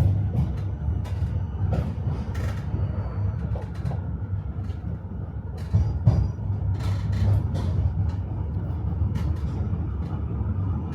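Tram running along the rails, heard from inside the car: a steady low rumble from the running gear, with the wheels clattering and knocking over the track. The sharpest knock comes about six seconds in.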